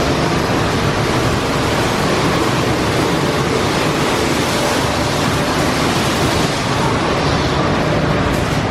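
Automatic soft-touch car wash running over a car: a loud, steady rush of spraying water, with faint machine tones underneath.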